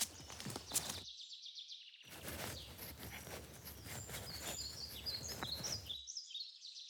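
Forest ambience of small birds chirping repeatedly. Under the chirps, a dense crackling noise layer cuts out about a second in, returns a second later and stops again near the end.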